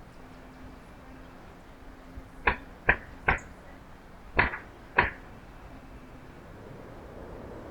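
Five sharp knocks, three in quick succession and then two more about a second later.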